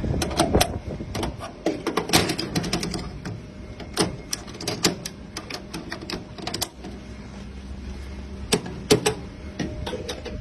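Boeing 777 engine cowl latches being worked by hand: an irregular run of sharp metal clicks and clacks over a steady low hum.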